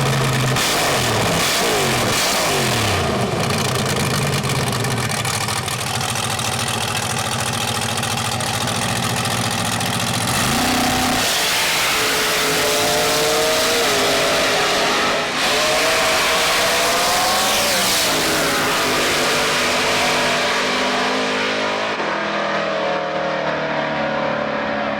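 Small-block V8 drag-race engine on nitrous, revving up and down, then accelerating hard, its pitch climbing and dropping back through several gear changes. Near the end the sound turns duller.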